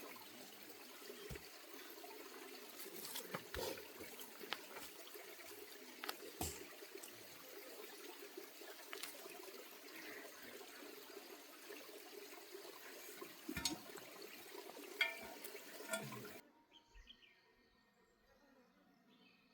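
Water running or trickling, a steady splashing hiss with a few knocks mixed in. It cuts off suddenly about sixteen seconds in, leaving only faint insect and bird chirps.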